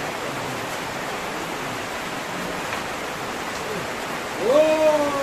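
Heavy rain falling with a steady hiss. About four and a half seconds in, a person's voice calls out in one long cry that swoops up and then slowly falls in pitch.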